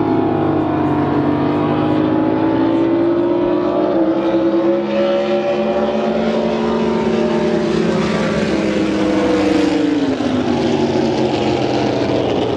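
Drag boat engine running hard and steady at high revs, its pitch wavering a little and then falling about ten seconds in.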